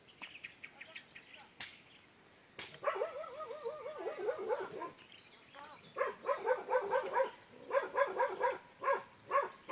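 Animal calls: a wavering, trilled call lasting about a second and a half near the middle, then quick runs of short, high yapping barks from a dog, four or five to a run.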